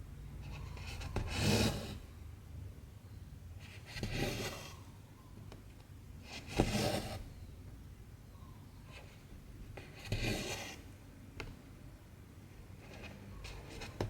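Cotton embroidery thread being drawn through cross-stitch fabric: a rasping swish of thread against cloth about every three seconds, five strokes in all, with a sharp tick of the needle near the middle.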